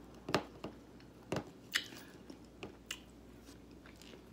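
Close-miked crunching of tortilla chips being bitten and chewed: a series of sharp crunches, loudest in the first two seconds, with quieter chewing between.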